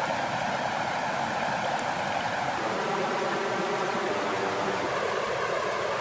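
Steady flowing water, an even rushing with no pauses or rises.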